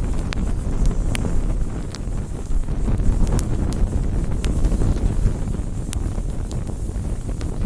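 Wood campfire burning: a steady low rumble of the fire with sharp crackles and pops about once a second.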